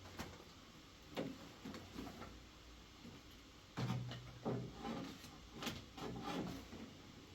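Scattered knocks and scrapes of household objects being handled, a few separate sounds a second or so apart, the fullest about four seconds in.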